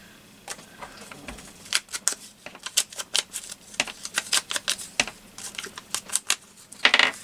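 Paper scraps being handled and laid onto a journal page: irregular sharp clicks and rustles, coming thick from about two seconds in, with a louder rustle near the end.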